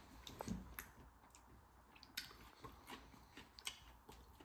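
Faint chewing of a fried chicken tender, with scattered small wet mouth clicks and a soft thump about half a second in.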